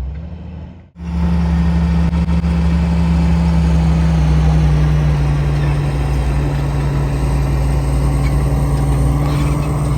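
A vehicle engine running steadily, loud and close, starting abruptly about a second in after a brief drop-out.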